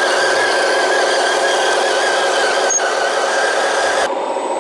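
Hydraulic pump and drive motors of a 1/14-scale RC hydraulic construction machine running steadily, with a high, slightly wavering whine. The sound cuts off suddenly about four seconds in, leaving a quieter, lower hum.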